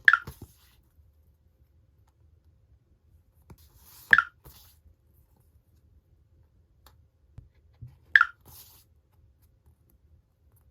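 Parcel packaging being handled during an unboxing: three short crinkling rustles, about four seconds apart.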